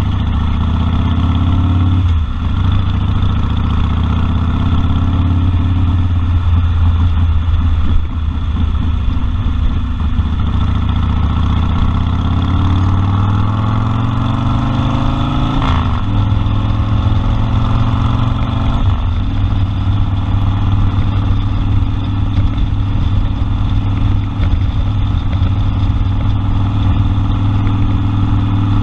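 Harley-Davidson Sportster 1200's air-cooled V-twin pulling under way, its pitch climbing and then dropping at gear changes about two seconds in and again around sixteen and nineteen seconds, before settling into a steady cruise.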